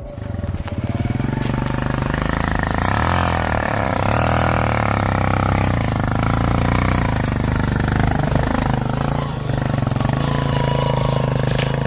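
A vehicle engine running steadily under load, its pitch wavering slightly, with fast even firing pulses.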